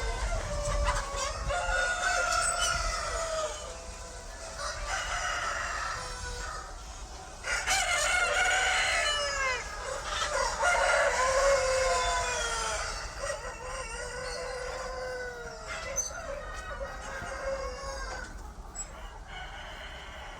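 Chickens clucking and a rooster crowing, many overlapping calls that rise and fall in pitch, loudest in the middle stretch. A low steady hum runs underneath.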